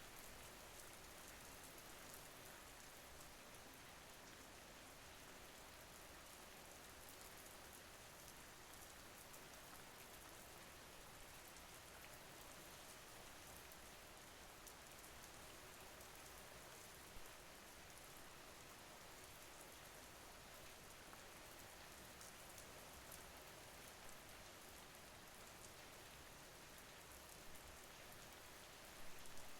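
Faint, steady rain falling, a continuous hiss of drops with a few slightly louder drop hits, one near the end.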